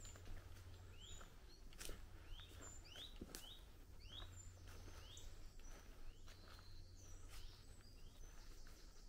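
Faint bird chirping: a run of short rising chirps, about two a second, from about a second in to halfway through, with scattered light clicks.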